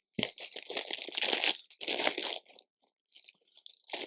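Hands rummaging through loose plastic LEGO pieces, searching for a part: irregular bursts of rattling and shuffling that thin out over the last second or so.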